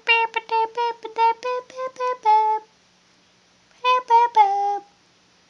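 Audio of a cat video playing on the computer: a quick run of short, clipped pitched notes, about four a second, then a pause and a short group of notes whose last ones slide down in pitch.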